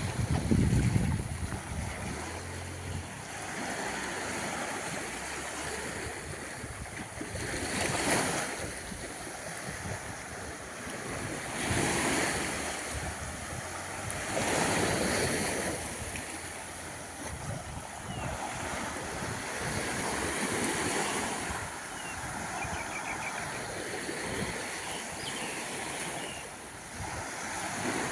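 Small waves washing onto a sandy beach, coming in as soft surges of surf every few seconds. A low rumble of wind on the microphone in the first few seconds.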